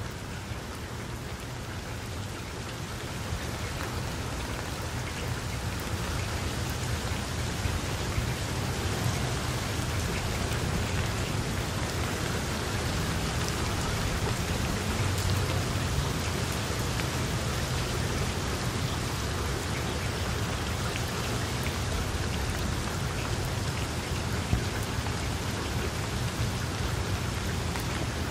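Rain falling steadily on a water surface: an even hiss of many drops with a low rumble underneath, growing slightly louder over the first several seconds.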